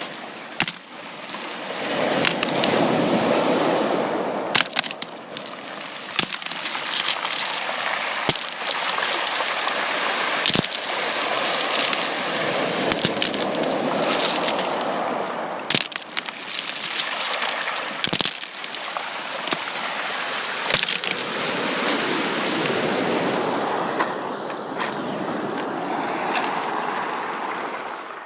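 Sea waves washing on a beach, the surf swelling and easing every several seconds, with scattered sharp splashing crackles on top.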